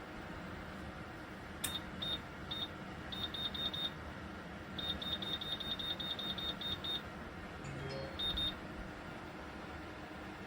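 Short high electronic beeps from a FreeFly ceramic fan heater's controls as buttons are pressed repeatedly: single beeps, then a quick run of about four, a longer run of about ten, and a final pair. The heater's fan runs with a steady hiss underneath.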